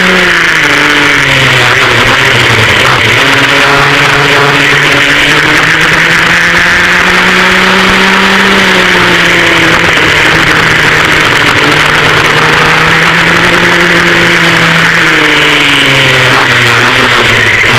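Twin rear-mounted two-stroke engines of a vintage racing go-kart running hard, heard onboard. Their pitch drops about a second in, climbs steadily, dips briefly near the middle and again shortly before the end, then rises: the engines winding down off the throttle and back up through the laps' corners and straights.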